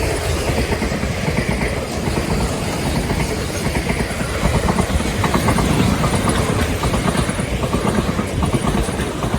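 A train passing close by: a loud, steady rush of wheel and rail noise, with a quick run of wheel clicks over the rail joints in the second half.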